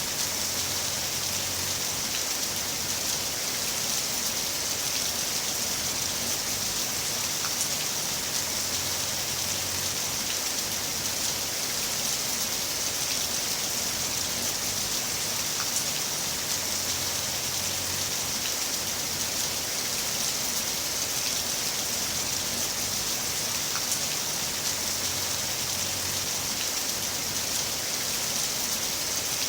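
Heavy rain falling steadily: an even hiss with scattered drop ticks, and a faint low rumble that comes and goes.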